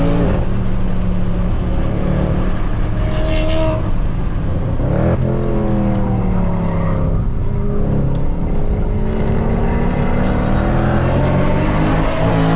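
Mercedes C63 AMG's 6.2-litre V8, with its secondary catalytic converters and resonators deleted, running hard on a race track: the engine note climbs and falls several times as the driver accelerates, lifts and changes gear, with a sharp drop in pitch about five seconds in.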